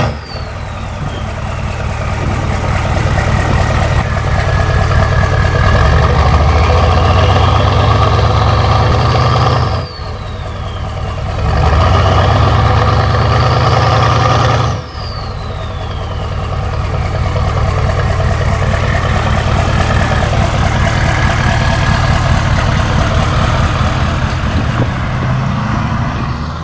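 A 1995 Chevy 1500's 6.5-litre turbo diesel V8 pulls under load through the gears. A whine climbs with the revs, and the level and pitch drop sharply at each shift, about ten and fifteen seconds in.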